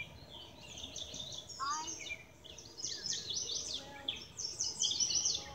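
Songbirds chirping and singing, a busy run of quick high chirps and trills that comes in bunches and is loudest around three and five seconds in.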